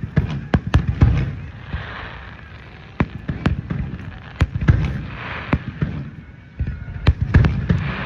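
Aerial fireworks bursting: a rapid run of sharp bangs and cracks over deep booms, with patches of hissing crackle from the shells.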